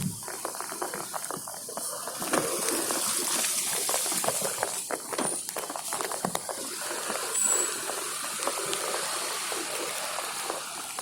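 Steady hiss and splashing of water with many small clicks, as a bicycle rolls along rain-soaked streets.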